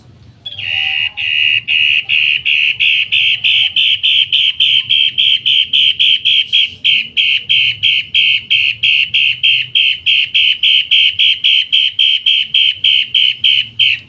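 Caged cendet matahari songbird calling in a long, loud, harsh run of evenly repeated notes, about three to four a second, starting about half a second in.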